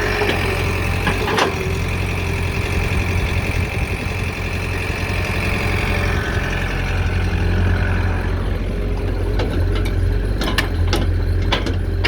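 Excavator's heavy diesel engine running steadily, with a high hydraulic whine that fades out about halfway through. Several sharp clanks come near the end.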